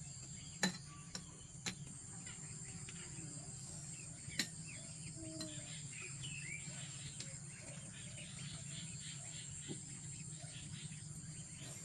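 Crickets chirring in a steady high drone, with a few light clicks in the first two seconds and another about four seconds in.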